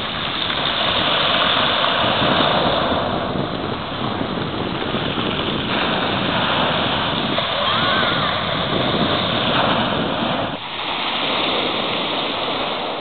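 Black Sea surf on a rough sea: waves breaking and washing ashore in a continuous rush that swells and eases every few seconds.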